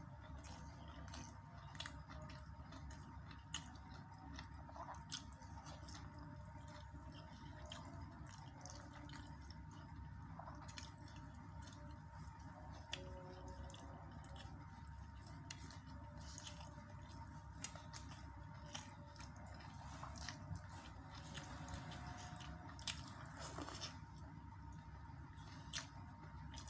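Close-miked wet eating sounds: a person chewing and smacking through carp-head gulai and sautéed cassava leaves, with small irregular clicks and squishes. A faint steady whine runs underneath.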